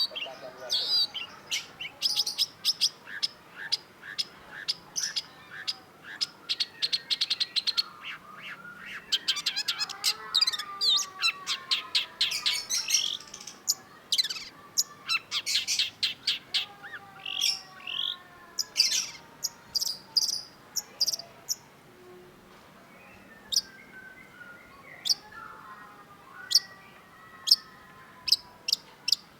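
Long-tailed shrike singing: fast runs of short, sharp, high chattering notes that thin out after the middle, with fainter gliding whistles underneath.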